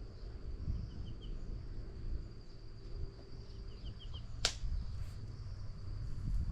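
Forest ambience: a steady high insect hum, with a short run of three quick chirps every few seconds. About four and a half seconds in there is one sharp click or snap, under a steady low rumble.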